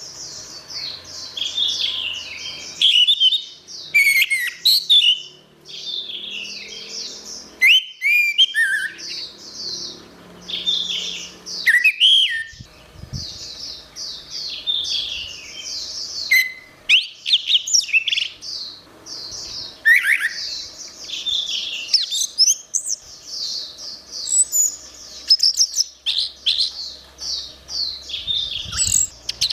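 Orange-headed thrush (anis merah) singing a long, fast, varied song of high chirps, trills and slurred whistles, phrase after phrase with barely a pause.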